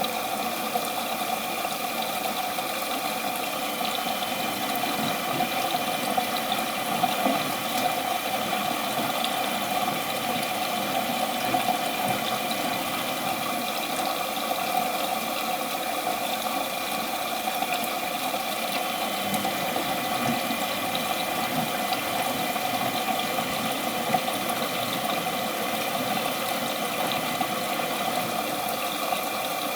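Miele Professional WS 5426 commercial washing machine running mid-cycle in a boil wash, a steady mechanical hum with several held tones over water and machine noise.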